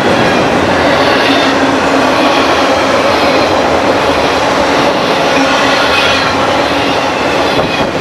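Train passing close by on the mainline: loud, steady rushing of wheels on rail, with a faint high squeal of wheels against the rails.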